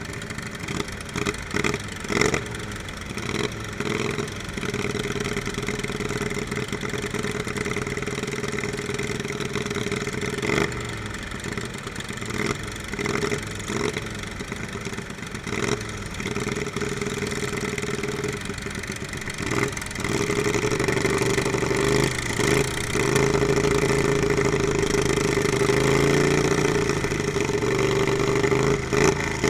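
Small lawnmower engines running, with repeated short revs, louder for the last third.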